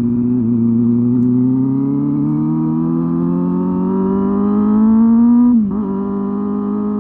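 Honda Hornet 250's inline-four engine and exhaust pulling under acceleration, its pitch climbing smoothly for about five seconds. It then drops sharply at an upshift and runs steady at the lower pitch.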